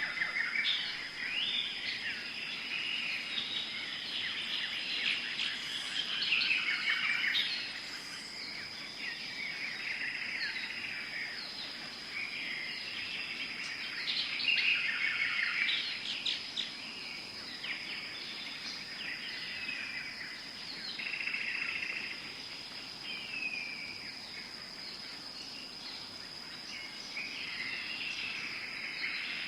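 Tropical forest ambience: many birds chirping and calling over one another in clusters, over a steady high-pitched insect drone.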